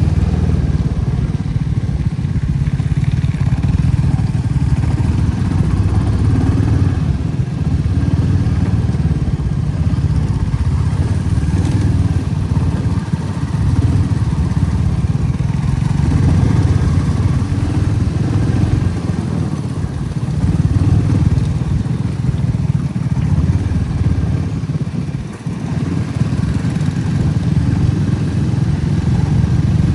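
Motorcycle engine running steadily under way, with a short dip in level about 25 seconds in.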